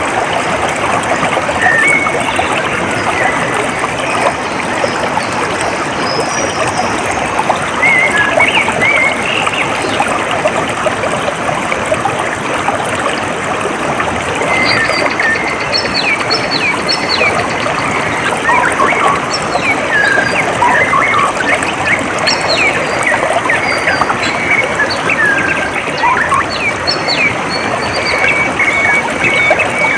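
Water trickling and running steadily, with small birds chirping in short calls over it, the calls coming more often from about halfway on.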